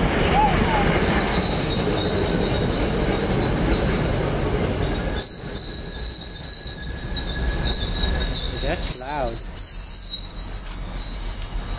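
MBTA commuter rail train passing, its wheels giving a high, steady squeal over the rumble of the cars. The rumble drops away sharply about five seconds in while the squeal goes on.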